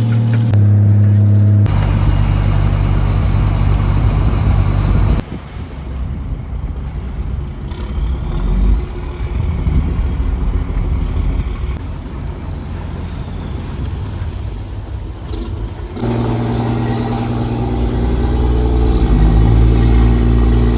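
Fishing trawler's diesel engine running with a steady low drone. The drone changes abruptly several times, and near the end its pitch rises briefly as the engine speeds up.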